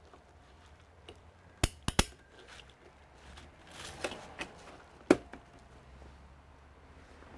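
A few sharp clicks and knocks of small hard objects being handled and set down: a quick group of three about two seconds in, a single louder knock about five seconds in, and light tapping and rustling between them.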